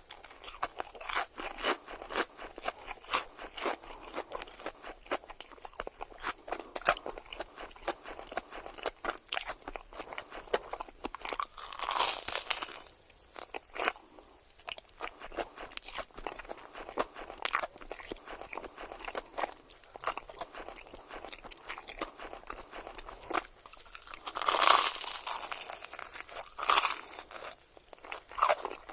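Close-miked eating of crispy food: repeated crunching bites and chewing, with louder crunches about twelve seconds in and again near the end.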